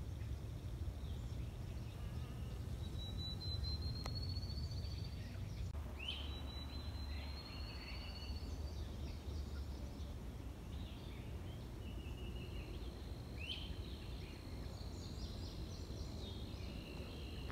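Wild birds calling across open water: two long, slowly rising high trills, each opening with a few short clicks, about three and six seconds in, then short upswept calls. A steady low rumble runs underneath.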